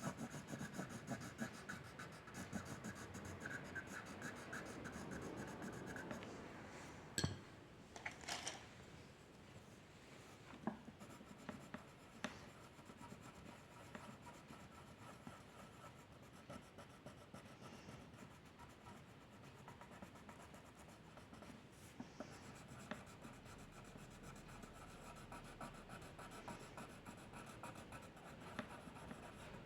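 A drawing tool scratching on paper in quick, short strokes, faint throughout. The strokes are busiest in the first six seconds. Two sharp clicks come about 7 and 8 seconds in.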